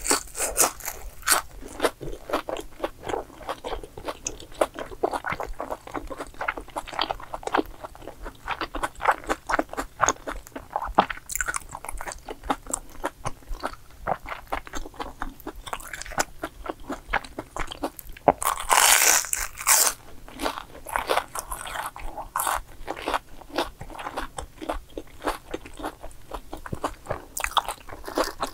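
Close-up chewing and crunching through the crisp fried crumb crust of a Korean fried cheese snack, with quick irregular crunches throughout and a louder crunchy bite about two-thirds of the way through.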